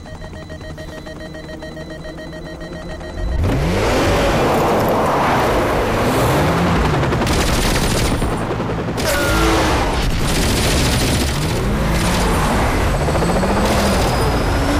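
Action-film car chase soundtrack. A low steady hum with held tones, then about three seconds in a sudden loud car engine revving hard, its pitch swooping up and down with the gear changes, mixed with rapid gunfire.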